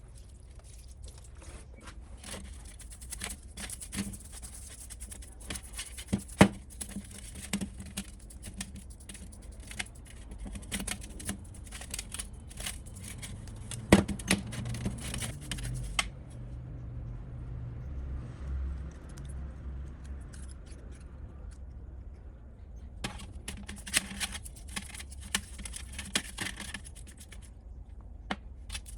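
Hand work on small metal parts: a run of clicks, scrapes and rattles, with two sharp knocks, about six seconds in and again near the middle. A quieter spell with a low hum follows before the scraping and clicking resume.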